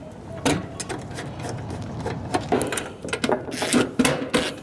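Irregular mechanical clicks and rattles of hand tools and electrical parts being handled while a pitted contactor and capacitor are swapped out on an air conditioning unit.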